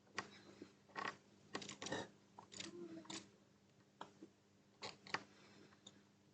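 Faint, irregular clicks and brief scrapes of small hand tools being handled at an electronics soldering bench during HDMI port pin repair.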